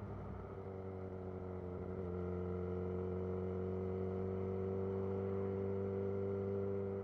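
2011 Yamaha XJ6's inline-four engine running through a Black Widow full exhaust system at a steady engine speed. The note dips slightly at the start and steps up a little about two seconds in.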